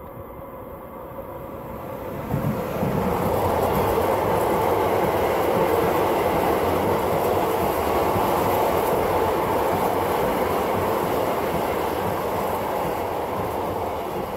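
Electric freight train of double-deck car-transporter wagons passing close by. The locomotive reaches the microphone about two seconds in, and the loaded wagons then roll past steadily, the noise easing slightly near the end.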